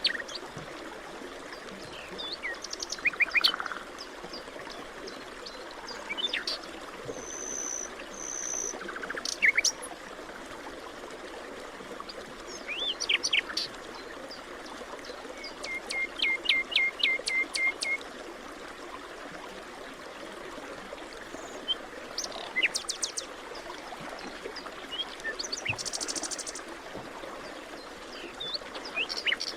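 Forest birds, several of them, singing and calling over a steady background hiss: scattered chirps and whistles, two high pure whistled notes around a third of the way in, and a quick run of repeated notes past the halfway point.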